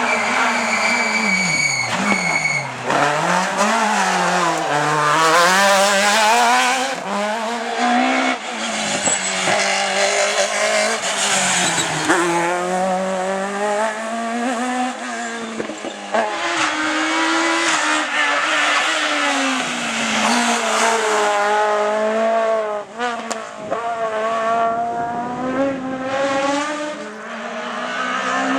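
Citroën Xsara rally car engines at full throttle on a stage, the pitch climbing through the revs and dropping sharply at each gear change or lift, again and again.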